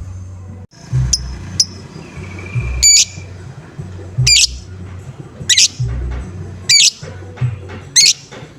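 Lovebird giving its squawking 'ngoek-ngoek' call, five loud, sharp, high notes a little over a second apart, the kind of call used to trigger other lovebirds to call. Background music with a steady low beat runs underneath.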